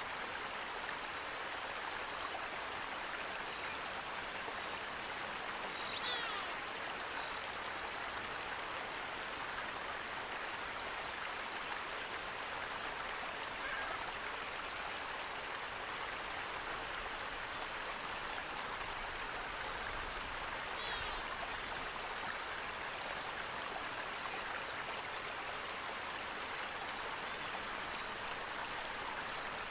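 Steady rushing water of a stream or waterfall, with two faint, brief high chirps, about six seconds in and again about twenty-one seconds in.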